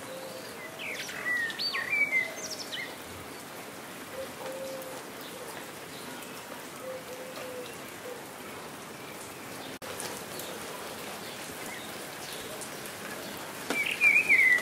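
Steady rain falling, with small birds chirping in quick rising and falling notes, once about a second in and again near the end. Faint, wavering low calls sound now and then under the rain.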